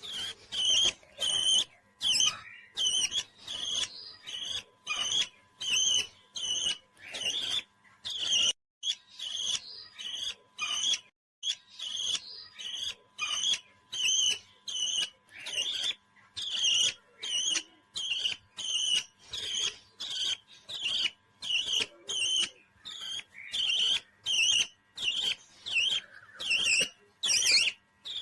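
A parrot calling over and over in short, shrill chirps, about two a second, in a steady rhythm.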